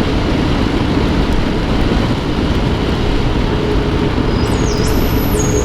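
Royal Enfield Himalayan single-cylinder motorcycle under way: steady riding noise of the engine running with wind rush over the microphone.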